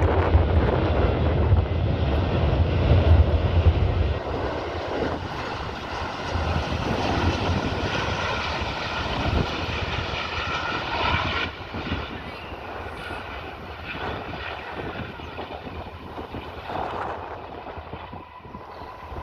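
Jet engines of a British Airways Airbus A380, Rolls-Royce Trent 900s, running loud: a heavy low rumble for about the first four seconds, then a whine of several steady engine tones that fades, dropping away about twelve seconds in.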